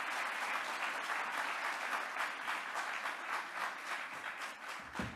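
Audience applauding, steady dense clapping that begins to fade near the end.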